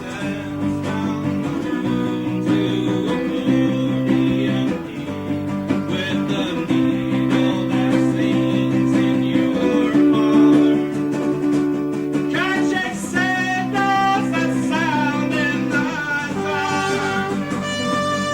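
Acoustic guitar strummed in steady chords, with a voice singing over it from about two-thirds of the way in.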